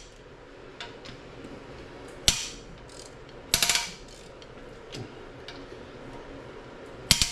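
Metal hand tools clanking and clicking against an engine block during teardown: a sharp clank about two seconds in, a short run of rapid clicks around three and a half seconds, and another cluster near the end.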